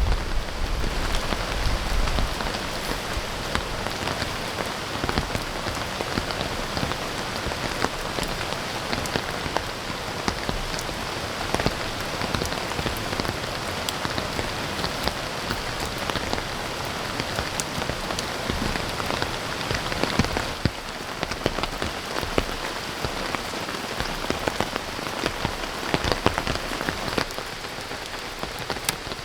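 Steady rain falling, with many separate drops striking close by as sharp ticks over a continuous hiss.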